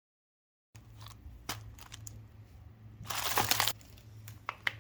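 Plastic packaging being handled and crinkled, starting abruptly about a second in: scattered clicks and rustles with a louder crackling stretch in the middle, over a low steady hum.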